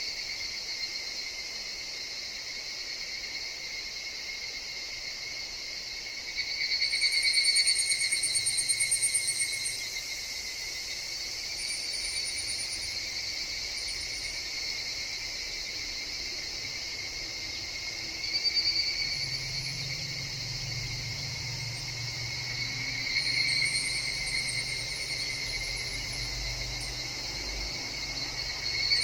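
Higurashi (evening cicadas) calling in a forest: a steady insect chorus that swells louder several times, about seven seconds in, again around eighteen seconds and around twenty-three seconds. A faint low rumble sits under the second half.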